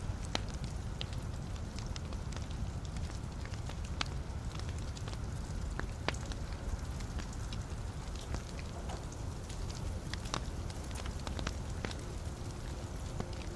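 Wood log fire burning in a fireplace: a steady low rumble of flame with scattered sharp crackles and pops.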